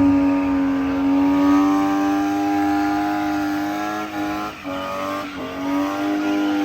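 Car engine revved high and held at a near-steady pitch, dipping briefly a few times after about four seconds.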